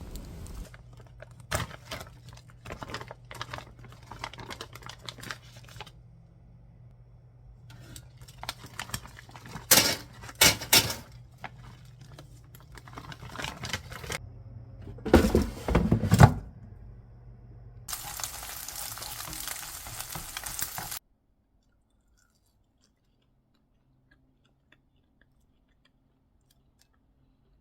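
Kitchen food-preparation sounds: clicks and clinks of utensils and dishes with a few louder knocks, then about three seconds of steady running water. The sound cuts off suddenly and near silence follows.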